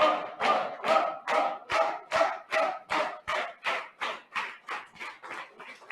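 Audience clapping in unison, about two claps a second, quickening slightly and fading out near the end.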